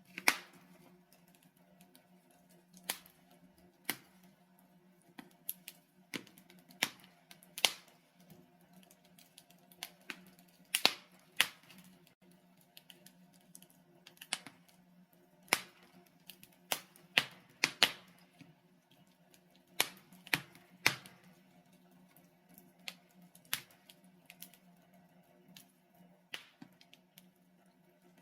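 Burning logs in a fireplace crackling, with irregular sharp pops, some louder than others, over a faint steady low hum.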